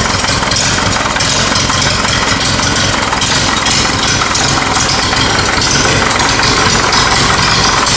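Ferguson TEA20 tractor's four-cylinder petrol engine ticking over while warming up. The ignition timing is well out and the engine still needs a tune-up, but there is no chuffing from the dipstick.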